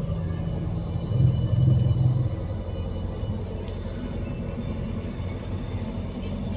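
Steady low rumble of a Scania Irizar i5 coach on the move, swelling louder for about a second starting a second in.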